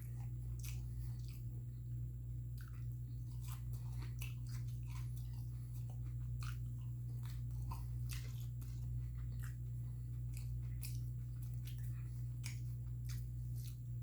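Close-miked chewing of a breaded fish sandwich: a person biting and chewing, with many small irregular mouth clicks and smacks. A steady low hum runs underneath.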